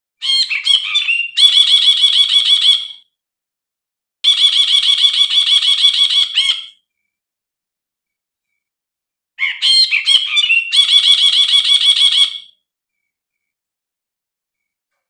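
Brinji (an Indonesian bulbul) singing in three separate phrases of two to three seconds each, each a fast run of repeated chattering notes. The first and third phrases open with a few varied notes before the run.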